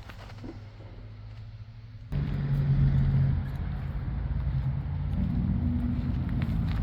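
Dump truck engine running steadily with a low hum. A little over two seconds in it becomes suddenly much louder and keeps running at that level.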